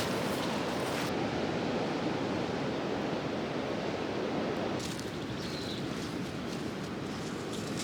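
Steady rushing noise like wind, with no clear tone, changing abruptly about one second and about five seconds in.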